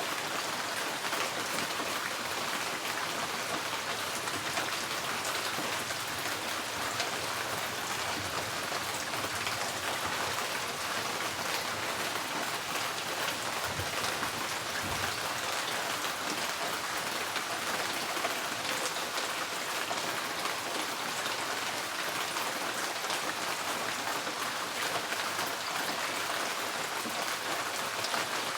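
Steady rain on a tin porch roof: a dense, even patter of drops on the metal.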